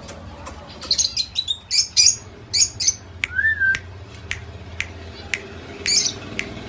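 Pet Indian ringneck parakeet chirping and squawking in quick clusters of short, sharp, high calls, with one brief rising-and-falling whistle about three and a half seconds in.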